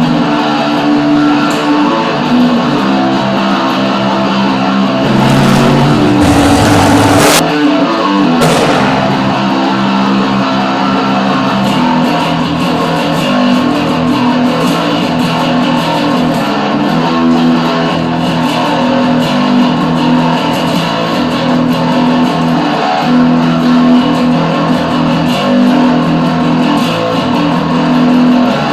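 Electric guitar playing garage rock, with a brief noisy swoop in pitch about a quarter of the way through.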